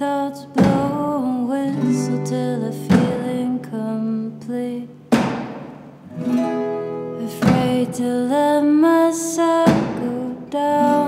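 Band playing a song live in an instrumental passage: strummed guitar chords struck about every two seconds, with held notes ringing between them.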